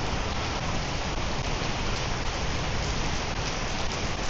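Heavy monsoon rain pouring down, a steady hiss of rain on the ground.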